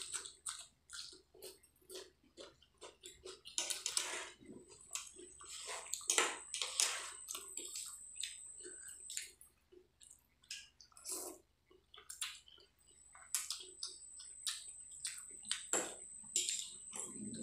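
Close-up wet eating sounds: a person chewing a mouthful of Maggi instant noodles, with many quick, irregular lip smacks and squelches.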